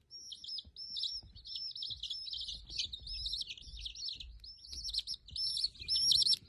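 A bird chirping over and over in short, high-pitched calls, about three a second, without a pause.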